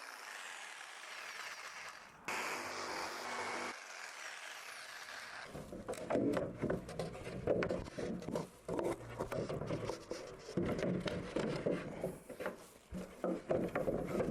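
Wood being handled and worked: irregular rubbing, scraping and knocking of boards, starting about five seconds in after a fading hiss.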